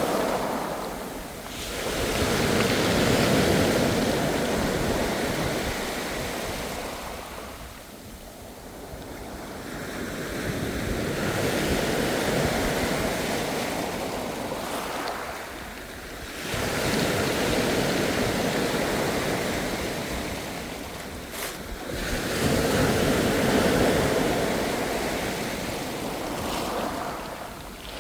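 Ocean surf: waves break and wash up the shore in slow surges that rise and fall every five to eight seconds, about four swells in all.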